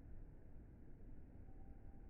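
Near silence: a faint steady low hiss and rumble.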